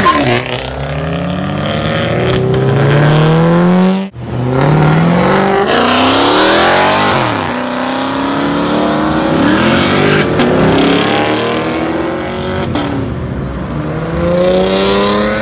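Car engines accelerating hard one after another, their pitch climbing through the revs again and again, with one car passing close by. The sound cuts out for an instant about four seconds in.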